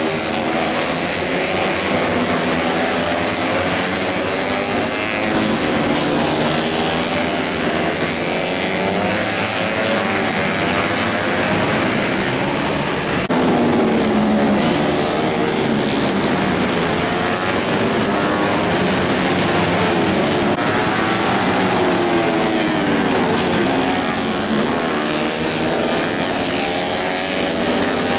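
Several racing motorcycle engines running hard together, their pitches rising and falling as the bikes accelerate, shift and pass, over a steady hiss.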